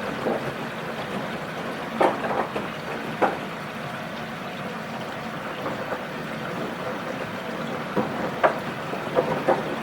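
Washing machine drum turning during a wash cycle: water and laundry sloshing steadily, with several irregular louder splashes and thuds as the load falls.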